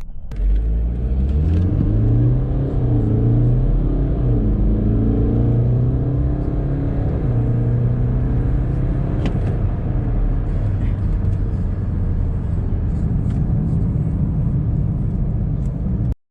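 BMW 320d's four-cylinder turbodiesel accelerating hard from a standstill, its engine note climbing and dipping briefly at each upshift. It cuts off suddenly near the end.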